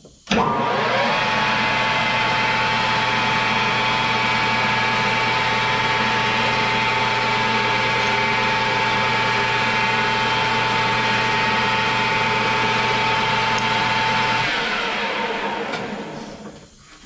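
Metal lathe motor spinning up, running steadily for about fourteen seconds while a part turning in it is filed to size, then switched off and coasting down near the end.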